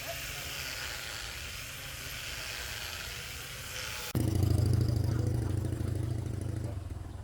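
Steady hiss, then an abrupt change about four seconds in to a motor running with a loud, steady low hum.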